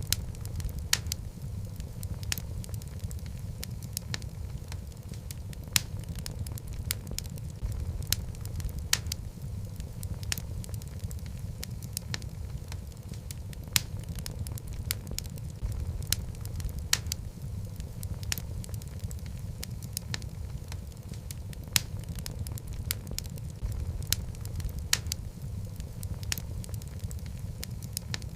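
Wood fire with logs burning in a fireplace: a steady low rumble of flames with frequent irregular crackles and snaps, a few sharper pops standing out.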